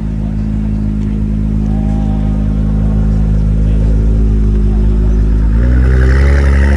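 Car engine running at a steady low pitch, then revving up about five and a half seconds in and holding louder through the end.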